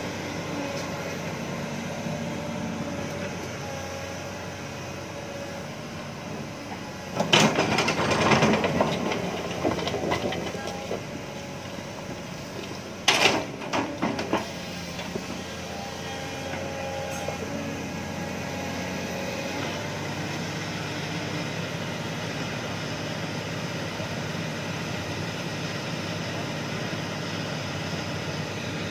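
Heavy-equipment diesel engines running steadily while an excavator loads a dump truck. Two loud noisy bursts break through, a longer one about seven seconds in and a shorter one about six seconds later.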